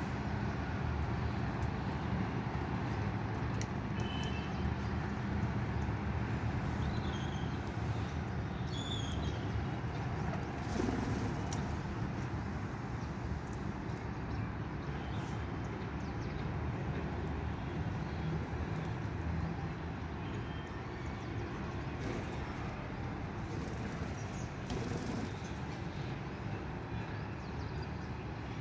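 Steady low rumble with a few short, high parrot chirps a few seconds in.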